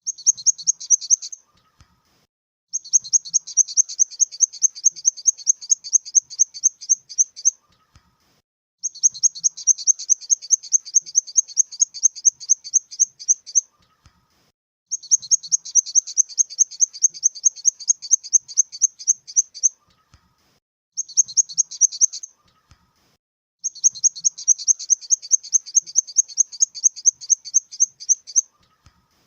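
Grasshopper stridulating: high-pitched rasping pulses, about five a second, in repeated bouts of several seconds with short pauses between them.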